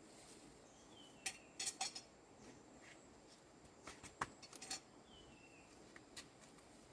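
Light clicks and clinks in two short clusters, a little over a second in and again about four seconds in. Two brief falling chirps are heard, one about a second in and one about five seconds in.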